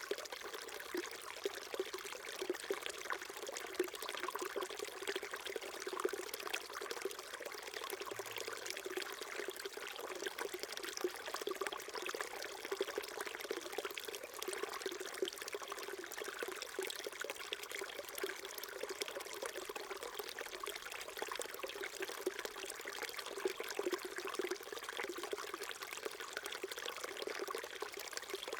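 Small mountain brook flowing, a steady trickling and babbling of water.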